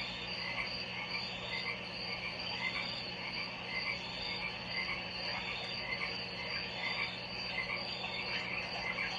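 A chorus of frogs calling, short chirps repeating about two to three times a second over a continuous high trill and a low steady hum.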